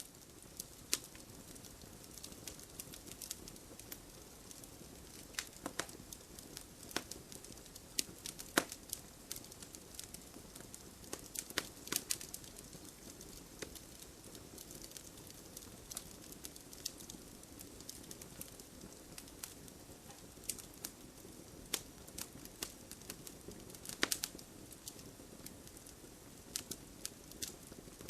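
Wood fire in a fireplace crackling, with irregular sharp pops and snaps over a soft steady rush of burning; a few pops stand out louder, about a third of the way in and again near the end.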